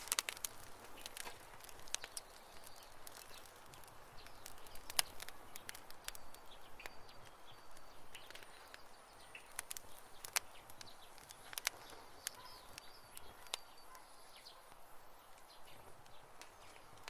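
Wood campfire crackling, with irregular sharp pops and snaps over a soft hiss; a few louder pops stand out about five seconds in and again around ten to twelve seconds in.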